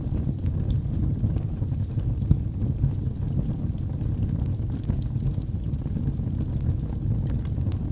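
Wood fire burning in a fireplace: a steady low rumble of the flames with scattered small, sharp crackles and pops from the burning logs.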